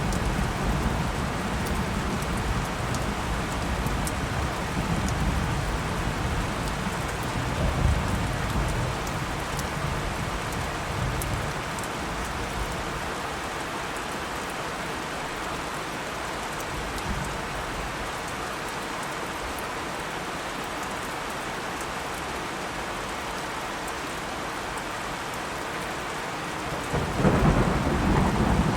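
Steady heavy rain with thunder: a low roll of thunder rumbles through the first part and dies away about twelve seconds in, leaving the rain alone, and a fresh roll of thunder breaks near the end.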